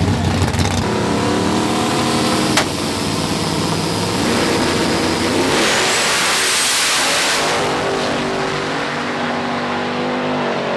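Car engine revving hard, its pitch climbing and falling several times. A loud rushing noise joins it for about two seconds near the middle.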